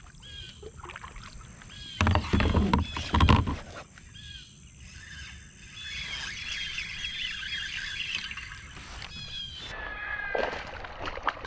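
Songbirds chirping again and again, densest in the middle stretch. About two seconds in there are two loud, dull bumps and rustles, from handling gear in the kayak.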